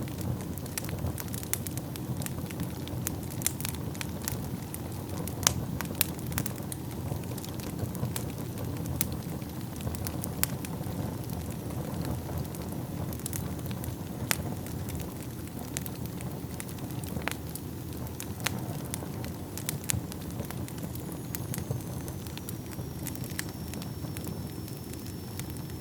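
Wood fire burning in a fireplace: a steady low rush of flames with frequent sharp, irregular crackles and pops from the burning logs. A faint thin high whistle begins near the end.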